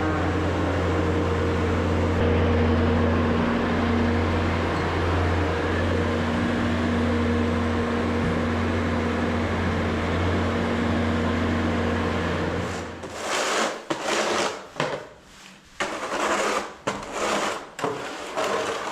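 Skid steer's diesel engine running steadily, then shut off about two-thirds of the way through. After that come irregular short rustling and scraping noises.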